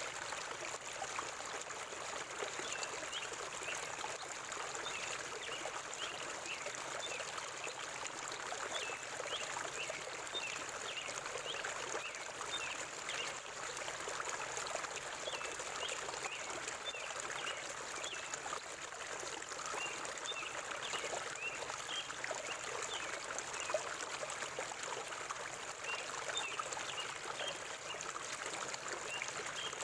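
River water flowing and trickling steadily, a constant rushing wash with many small splashes on top.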